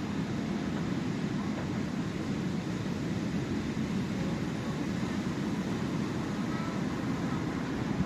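Steady low rush of sea surf, an even rumble without breaks.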